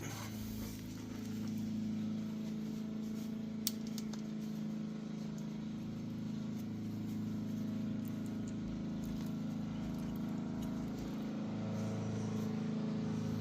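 A steady, low mechanical hum like a running motor, with one sharp click about four seconds in.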